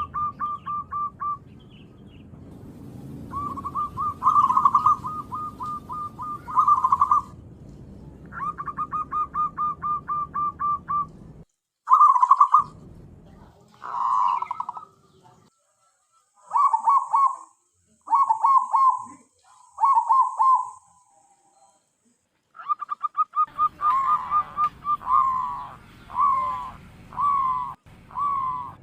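Zebra dove (perkutut) calling, used as a lure call: runs of rapid staccato coos lasting a few seconds alternate with shorter clipped phrases. The calls are broken by a few short, completely silent gaps.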